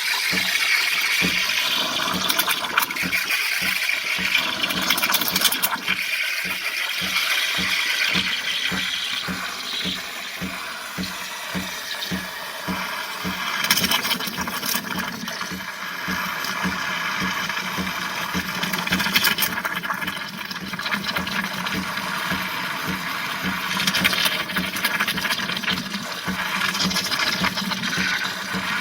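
Black+Decker BXCO1200E espresso machine running: a steady pump hum with rushing, gurgling water and hiss throughout.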